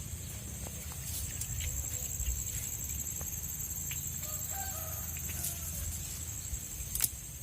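Chickens clucking in a few short, faint calls about halfway through, over a steady high-pitched drone.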